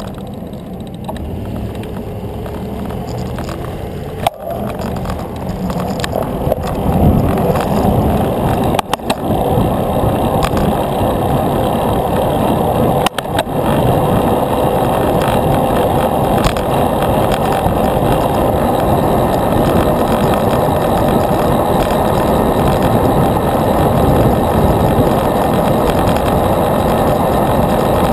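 Wind rushing over the microphone with road and tyre noise from a moving bicycle, a steady low rush with no distinct tones. It grows louder about six seconds in, with a few brief dropouts.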